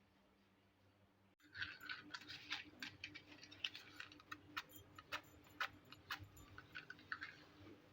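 Quiet for about a second and a half, then an irregular run of light clicks and taps, several a second, like small objects being handled and set down.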